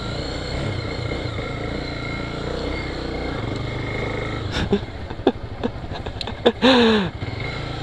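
Motorcycle engine running steadily at road speed, with wind and road noise. A few short clicks and a brief voice-like call come near the end.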